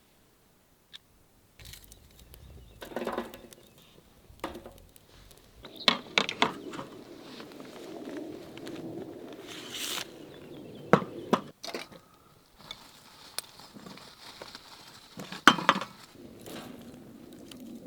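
Objects being handled: scattered knocks and clinks with crinkling, loudest about 6, 11 and 15 seconds in.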